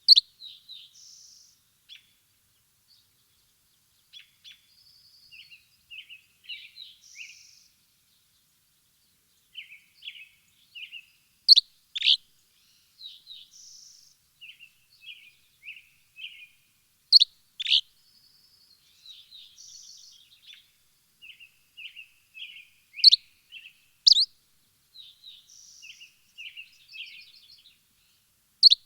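Songbirds chirping: a run of short, quick chirps and trills, broken about every five or six seconds by loud, sharp down-slurred notes that often come in pairs.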